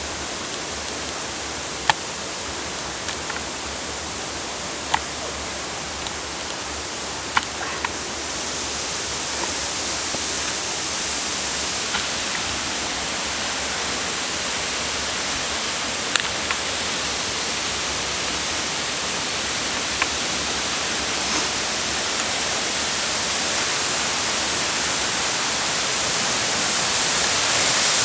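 Waterfall rushing steadily, growing louder about eight seconds in and again near the end. A few brief sharp clicks sound over it.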